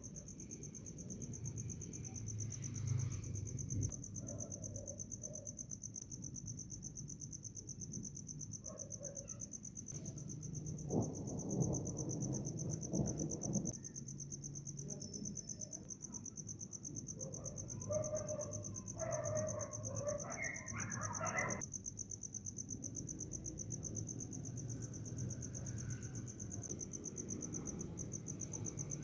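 A cricket chirping steadily, a high, finely pulsing note that runs on without a break over a low background rumble. Near the middle come two louder stretches of low noise, the second carrying a brief wavering pitched sound.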